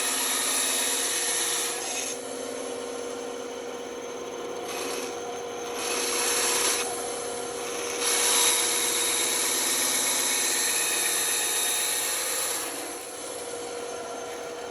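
Band saw running with a steady hum, its blade cutting through wood. The cutting noise swells in three louder stretches: at the start, again around six seconds in, and for a longer pass in the second half.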